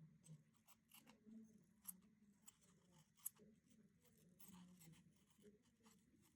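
Near silence, with a few faint clicks and light scratching from small hand tools and plastic parts being handled while a model locomotive chassis is cleaned; two sharper ticks stand out, about two seconds in and a second later.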